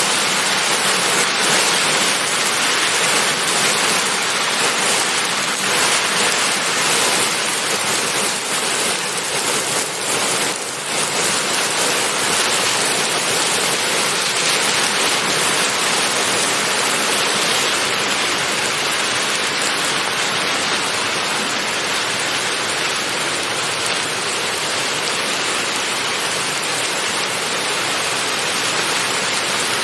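Steady heavy rain, a dense even hiss with no pauses, dipping briefly about ten seconds in.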